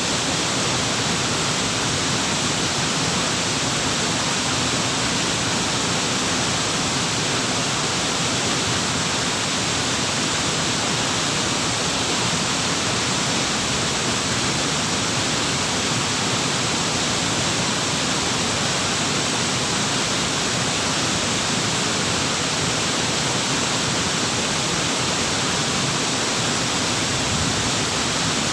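Waterfall: water pouring in a steady, unbroken rush.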